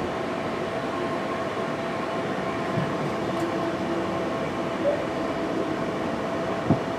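Passenger train running, a steady rumble and hum with a few short knocks.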